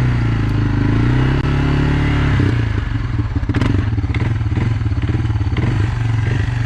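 Quad bike engine running cold: revving up and down for about two and a half seconds, then dropping to a rough, pulsing idle, with a few sharp clanks over it. The engine is not yet warmed up and idles unevenly, close to stalling.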